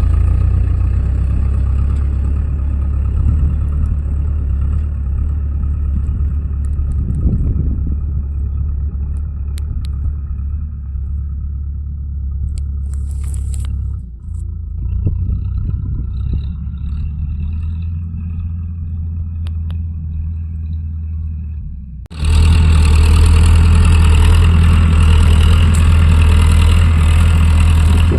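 Tractor diesel engine running steadily. Near the end it abruptly turns louder and fuller.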